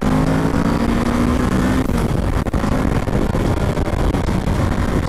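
Kawasaki Ninja 650's parallel-twin engine under hard acceleration, heard from the riding motorcycle with heavy wind rush on the microphone. The engine note stands out for about the first two seconds, then is mostly buried in wind noise.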